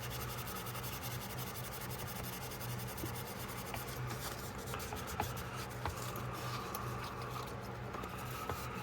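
Abrasive rubbed with firm pressure on a small steel pocketknife blade, a steady scratchy scrubbing with a few light ticks, to smooth out shallow rust pitting.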